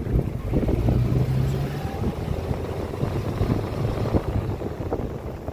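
An engine running with a low, steady hum that fades about two seconds in, over rough wind-like noise and a few faint knocks.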